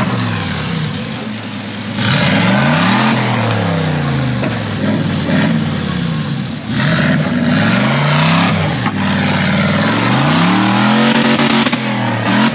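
Off-road 4x4 race vehicle's engine revving hard, its pitch rising and falling again and again every second or two. A loud rushing noise joins it about two seconds in.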